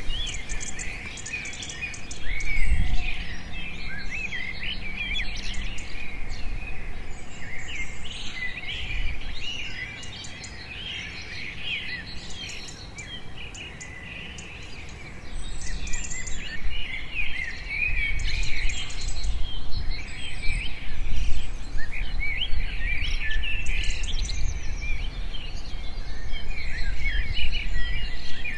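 Many birds chirping and calling at once, a dense chorus of short high notes. A thump comes about three seconds in, and a low rumble joins from about halfway.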